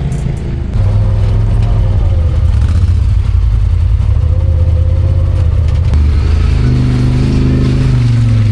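Side-by-side UTV engine running under way on the trail, its note jumping louder about a second in and shifting pitch about six seconds in as the throttle changes.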